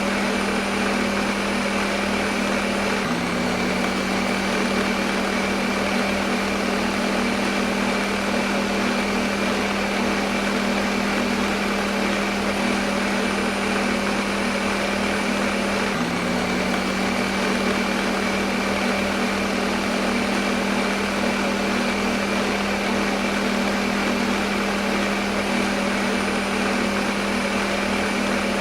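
Electric kitchen blender motor running continuously, a steady whirring hum with a high hiss over it. The hum shifts briefly twice, about 13 seconds apart.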